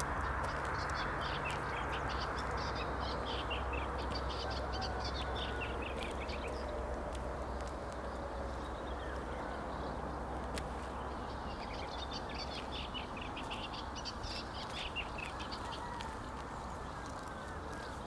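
Birds chirping and chattering in quick high calls, in two bouts, over a steady rushing background noise.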